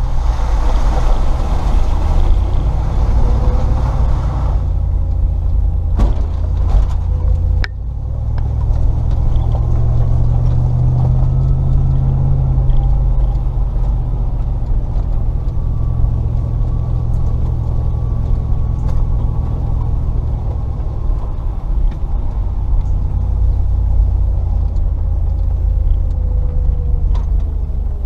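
Range Rover P38's 4.0-litre V8 running under way at low speed, a steady low rumble. A rushing noise lies over it for the first four seconds or so, and there are two sharp knocks about six and eight seconds in.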